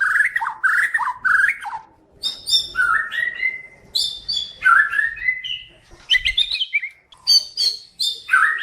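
White-rumped shama singing: a quick run of repeated warbled notes, then after a short pause varied phrases of rising whistles and high, sharp chips.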